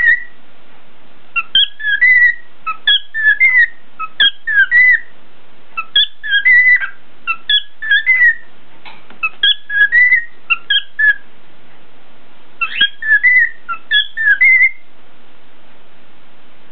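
Cockatiel whistling its song in quick runs of short, gliding notes, grouped in phrases with brief gaps. The song stops near the end.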